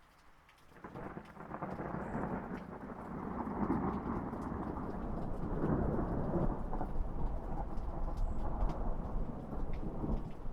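A long roll of thunder over rain: the low rumble comes in about a second in, builds, and is still rolling at the end, with scattered raindrop ticks throughout.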